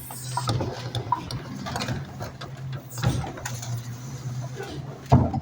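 Rear-loader garbage truck running, a steady low hum with scattered clanks and knocks, and a loud bang near the end.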